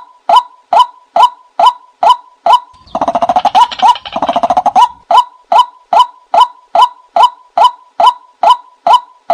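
Watercock calling: a steady series of short, downward-sliding notes, about two and a half a second. About three seconds in, two quick rolls of rapid notes, each under a second, break the series before the steady notes resume.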